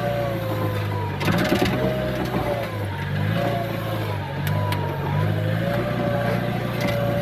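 Diesel engine of earth-moving machinery running steadily, its note stepping up and down as it revs, with a brief clatter a little over a second in.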